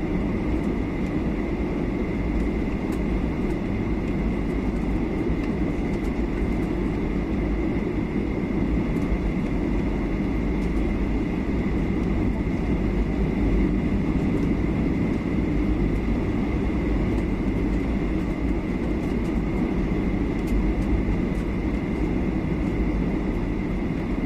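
Steady cabin noise inside a Boeing 737-800 on its descent to land: airflow and CFM56 turbofan engine drone with a thin, steady high whine over it.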